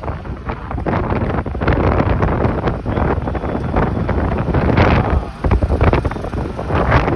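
Busy road traffic running past continuously, with wind buffeting the microphone.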